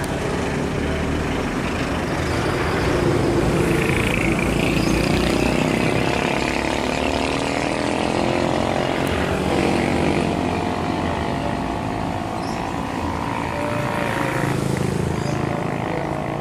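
Passenger train running away around a curve: a steady rumble of the coaches' wheels on the rails. A wavering whine joins in about six seconds in.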